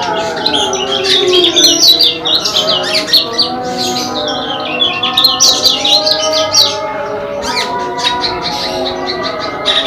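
Small songbirds, a cemperling and a kecial (pleci) Lombok, singing against each other in rapid, dense high chirps and twitters, with lower held, gliding tones underneath.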